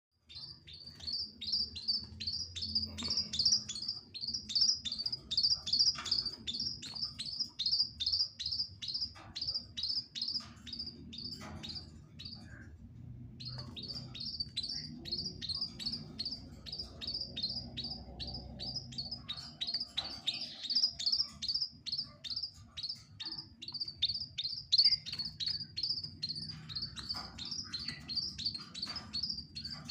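Emprit chicks (young small songbirds) chirping fast and insistently, about three high, sharp chirps a second. There is a short pause about twelve seconds in.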